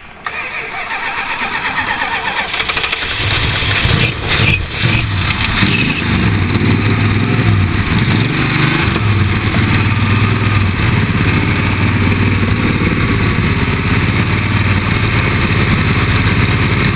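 1978 Chrysler Cordoba's V8 being cranked and catching after a hard start. It fires about three seconds in, stumbles briefly, then settles into a steady, rough-sounding run.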